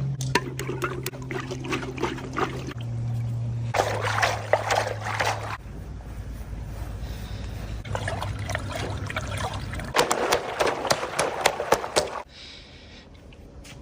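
Water pouring and splashing in two bursts, about four seconds in and again from about eight to twelve seconds, over a low steady hum.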